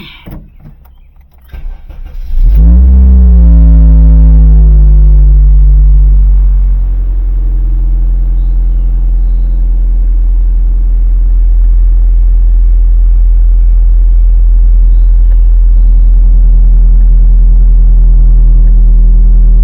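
Car engine starting a little over two seconds in: it revs up briefly as it catches, then drops back over a few seconds and settles into a steady idle.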